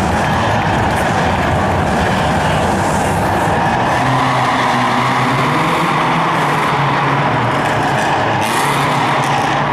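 Rally car's engine running hard at high revs without a break, its pitch wavering slightly, inside a sports hall.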